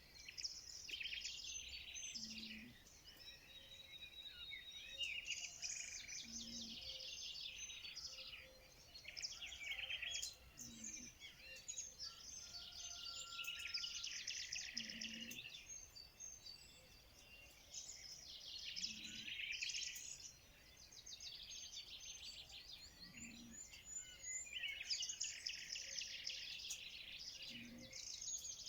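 Many small birds chirping and twittering continuously in a dense chorus, with a short low call repeating about every four seconds underneath.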